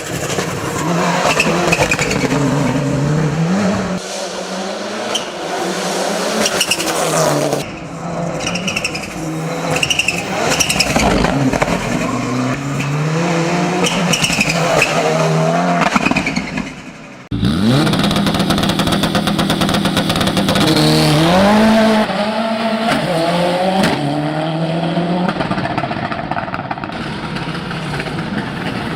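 Race-built Mitsubishi Lancer Evolution VI's turbocharged four-cylinder engine driven hard, its revs repeatedly climbing and dropping through gear changes. The sound cuts briefly about two-thirds of the way through, then carries on.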